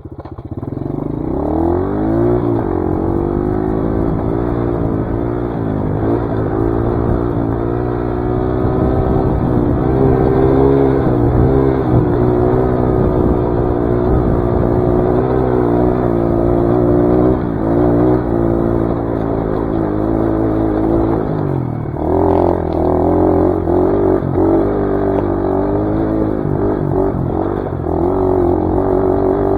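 Dirt bike engine pulling away, its revs climbing in the first couple of seconds, then rising and falling again and again as the bike is ridden up a trail. From about 22 seconds in the engine note turns rougher and more uneven.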